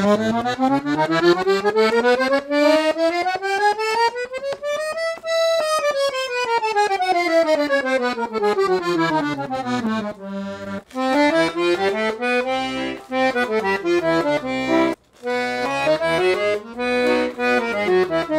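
Parrot Peacock piano accordion, with 34 treble keys and low-and-two-middle reeds, playing a fast run of notes up for about five seconds and back down. It then plays a melody in short rising and falling phrases, with two brief breaks.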